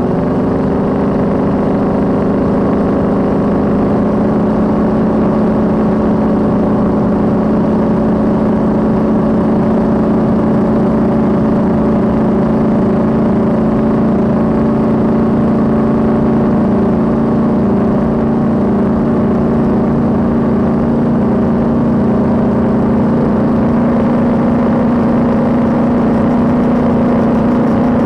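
Cigarette race boat engine running steadily and loudly, a deep even drone whose pitch creeps up slightly near the end.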